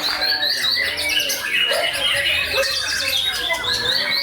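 White-rumped shama (murai batu) singing: a fast, unbroken run of varied notes, many of them quick rising sweeps.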